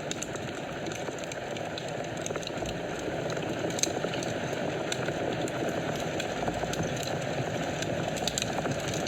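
Fire burning in a fireplace: a steady low rush of flames with scattered sharp crackles and pops, a louder pop about four seconds in and a cluster near the end.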